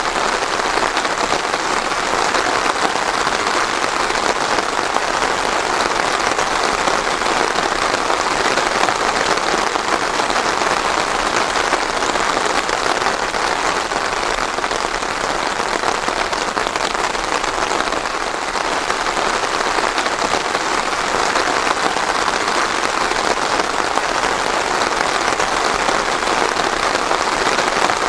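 Steady rain falling on a surface, a dense, even patter of drops without thunder.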